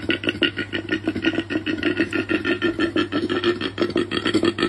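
Koala bellowing: a continuous, rapid train of rasping pulses over a steady low drone.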